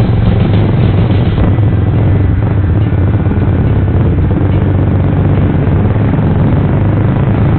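Suzuki GSX-R150's single-cylinder engine running steadily through a Proliner racing exhaust, a loud, even low drone.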